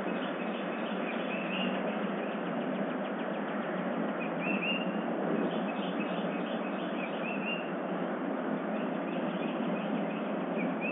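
Small birds chirping in short, scattered calls over a steady hiss, heard through a security camera's microphone.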